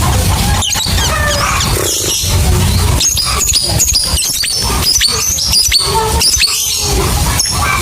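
Lovebird chattering: a fast, dense run of short, shrill chirps and squeaks, the kind of song played to lure other lovebirds into singing.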